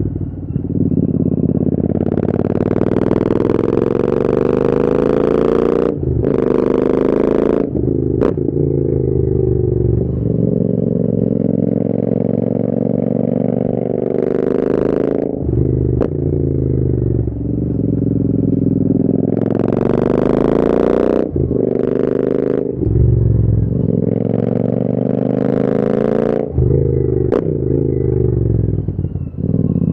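Royal Enfield Interceptor 650's parallel-twin engine through an AEW te101 aftermarket exhaust, pulling up through the revs again and again. The pitch rises on each pull and drops off with short breaks at the gear changes or when the throttle is closed.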